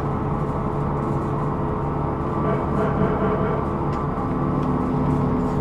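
Hino Rainbow II non-step bus (SDG-KR290J1) driving along, heard from inside the cabin: a steady engine and road drone with a constant whine running through it, and a second, lower tone joining about four seconds in. The bus is recorded for an abnormal noise in its running sound.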